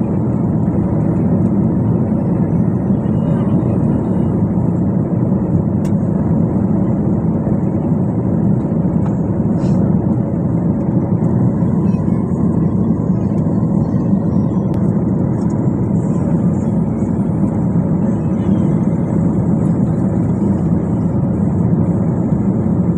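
Airliner cabin noise: the steady, even rush of the jet engines heard from inside the passenger cabin.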